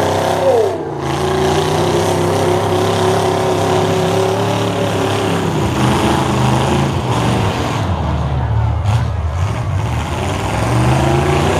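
Demolition derby stock truck engines revving and running hard under load, the pitch dropping about a second in, holding, then falling and climbing again as the trucks throttle up.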